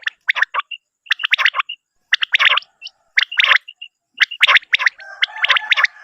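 Common quail calling over and over: short, sharp notes in quick groups of two or three, each group about a second apart. Near the end a steady droning tone sounds underneath for about a second.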